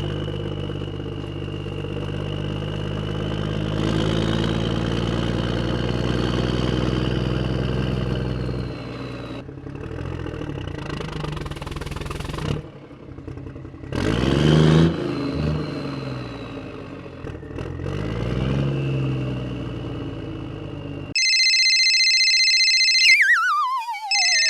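An engine running, its pitch rising and falling several times as it revs, typical of a mini tractor's motor or a tractor engine sound laid over the footage. Near the end it cuts off abruptly into a synthetic-sounding effect with steady tones and a falling whistle.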